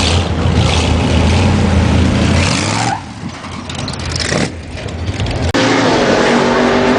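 A vehicle engine running loud with a deep rumble, revving, for about three seconds, then dropping off to a quieter, thinner sound. Music cuts in abruptly about five and a half seconds in.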